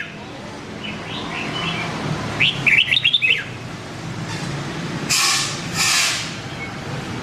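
Red-whiskered bulbul singing short, quick warbling phrases: a soft one about a second in and a loud one about two and a half seconds in. Two brief rushing hisses follow near the five- and six-second marks.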